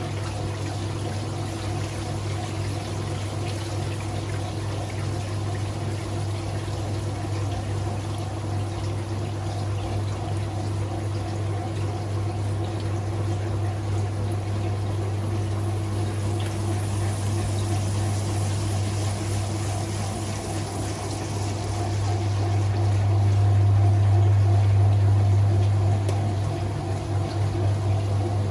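Whirlpool 3RLSQ8033SWD top-loading washing machine pumping out its wash water: a steady pump hum with water pouring, swelling louder about two-thirds of the way through.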